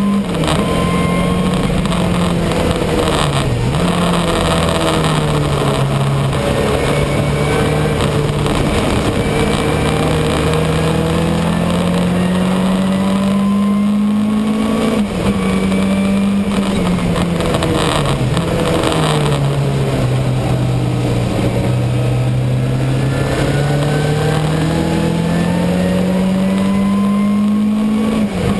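Ford Sierra RS500 Cosworth's turbocharged four-cylinder engine heard from inside the car at racing speed. Its note climbs slowly over long stretches and falls back, with a few brief sharp dips.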